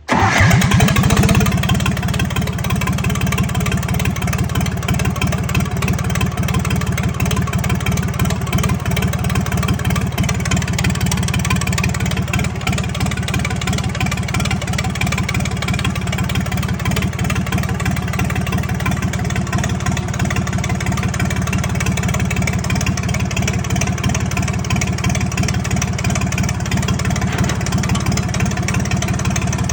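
1976 John Deere 350C crawler dozer engine starting up: it catches suddenly, is loudest about a second in, then settles into a steady idle.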